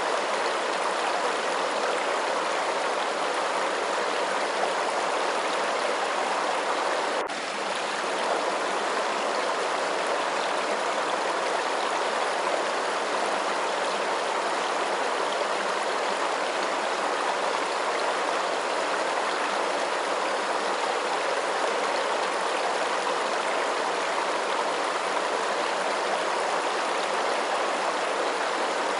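Flowing water rushing steadily, a continuous even hiss of running water, with one brief dip in level about seven seconds in.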